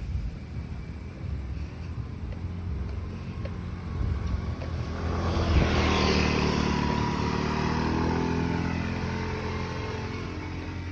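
A motor vehicle passing close by on the road: its engine and tyre noise swell from about four seconds in, peak near the middle, then fade slowly, the engine note dropping in pitch as it goes by.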